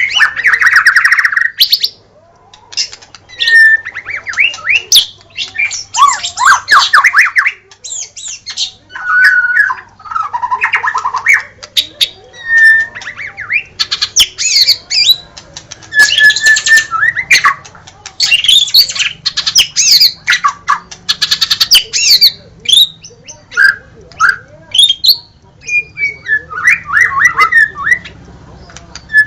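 White-rumped shama (murai batu) singing vigorously, phrase after phrase with short pauses between. The phrases mix rapid trills, clear whistles and harsh notes.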